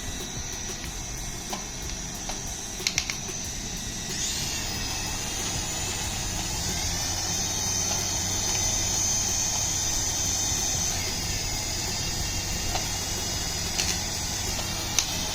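Small electric motor of a remote-control toy whining steadily, rising in pitch about four seconds in and then holding, with a few light clicks.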